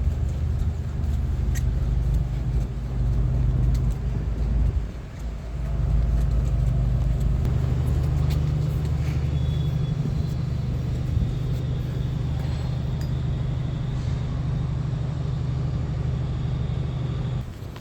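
Motor vehicle engine running with a steady low rumble, which dips briefly about five seconds in and falls away sharply near the end.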